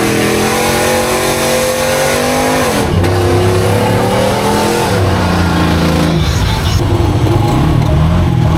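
Off-road vehicle engine revving hard. Its pitch holds and climbs slightly, drops about three seconds in, climbs again, then falls away about five seconds in to a lower, rougher running note.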